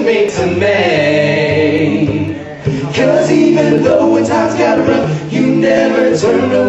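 Male vocal group singing a cappella in close harmony: several voices holding sustained chords over a low sung bass line, with a brief dip about two and a half seconds in.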